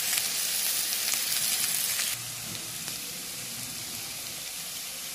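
Onions, green chillies and crushed garlic-ginger sizzling in hot oil in a metal kadhai while being stirred with a metal spatula. The sizzle drops suddenly to a quieter level about two seconds in.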